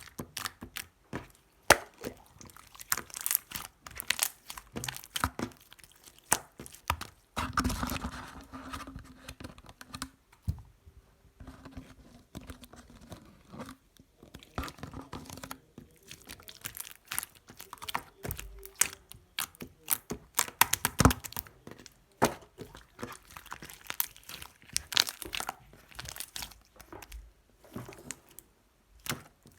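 Clear slime being squished and pulled by hand, making irregular sticky clicks and pops, with a denser squelchy stretch about eight seconds in.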